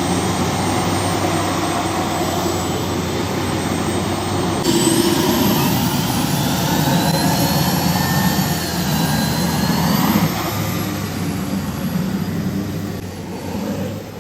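A pulling vehicle's engine running hard and loud at a tractor pull. A high whine rises over it from about five seconds in.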